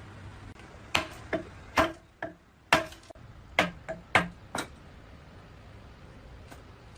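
A quick, irregular series of about nine sharp knocks or taps, like hard objects striking in a workshop, some with a brief ring, bunched between about one and four and a half seconds in.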